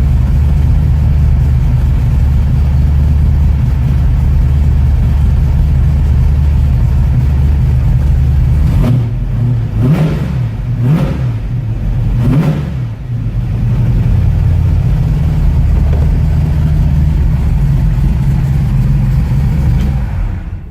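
1969 Ford Mustang's fuel-injected engine idling steadily, with three quick throttle blips in the middle, each rev rising and falling, about a second apart. It is the car's first run in about six months, and the engine runs without hesitation.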